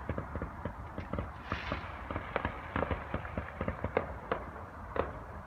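Fireworks going off: many sharp crackles and pops in quick, irregular succession, with a short hiss about a second and a half in.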